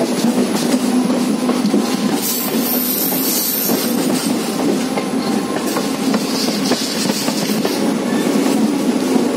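Indian Railways passenger coach running along the line, a steady rumble with its wheels clicking over rail joints and points, heard from aboard the coach.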